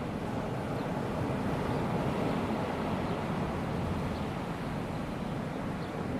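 Calm sea: small waves washing steadily onto the beach, a continuous low wash with no distinct breaking crashes.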